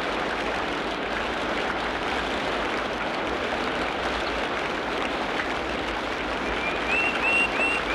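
Tropical rainforest ambience: a steady, dense hiss and patter of water, like rain on foliage. About six and a half seconds in, a bird calls a quick run of short whistled notes.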